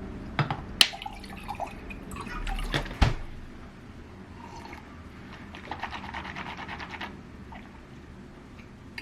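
Liquid being poured or dripping, with a few sharp knocks and clinks in the first three seconds, the loudest about three seconds in.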